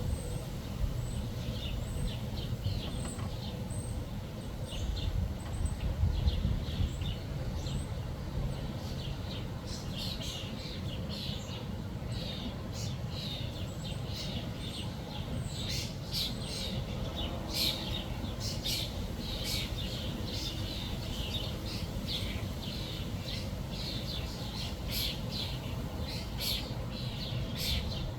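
Small songbirds chirping, with many short high chirps that come thicker from about ten seconds in, over a steady low rumble.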